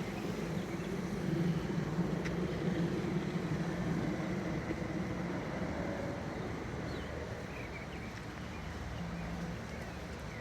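A motor vehicle's engine running with a steady low hum that eases off somewhat in the second half.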